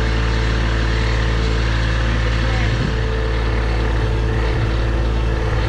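John Deere 1023e compact tractor's three-cylinder diesel engine running steadily under load while it tows a pickup truck on a rope.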